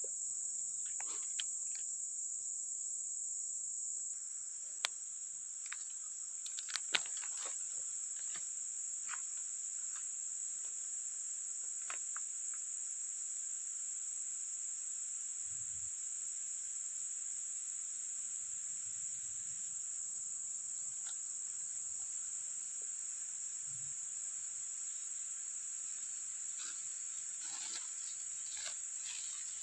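Steady high-pitched chorus of insects, a continuous shrill drone, with a few sharp little clicks and taps about five to seven seconds in.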